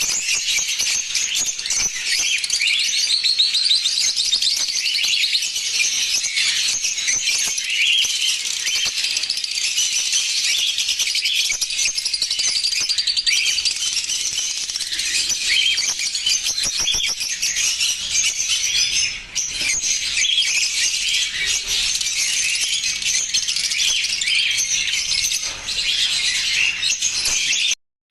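Lovebirds chirping in a dense, continuous, high-pitched chatter of many overlapping calls. It cuts off suddenly near the end.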